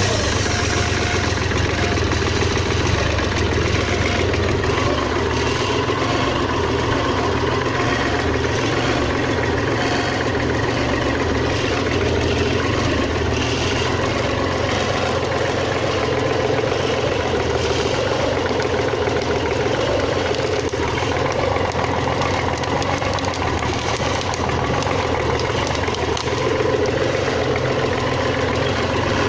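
Kubota L3400 tractor's freshly overhauled diesel engine running steadily at idle, just after being started.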